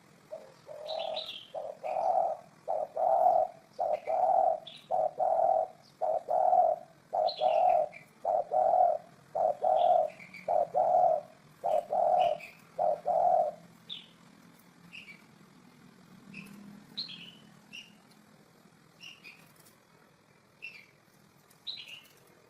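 Spotted dove cooing: a long run of low, evenly repeated coos, a little more than one a second, that stops about two-thirds of the way through. Small birds chirp briefly and high throughout.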